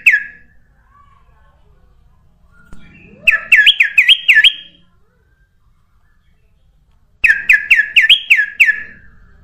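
Kutilang emas bulbul singing. Two short phrases of quick, looping whistled notes, about five a second, come in the middle and near the end, with pauses between them.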